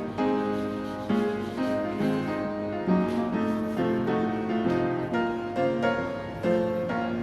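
Background music: soft piano playing a slow melody over held chords.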